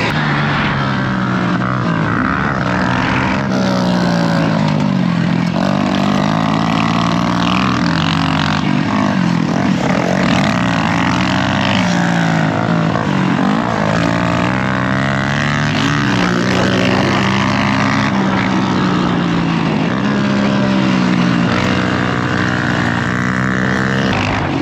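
Dirt bike engine on a motocross track, its pitch climbing and dropping again and again as the throttle is opened and closed.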